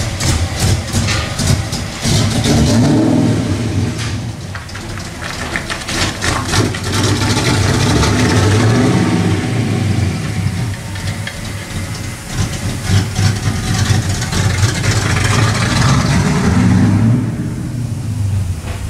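Fox Body Mustang drag car's engine running and pulling away, with repeated revs swelling and easing off; it drops off near the end.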